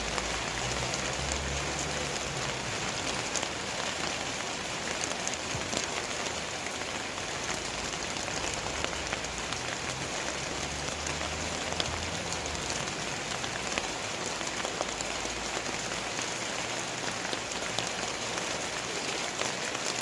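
Heavy rain falling steadily, a dense hiss with the close patter of individual drops striking surfaces.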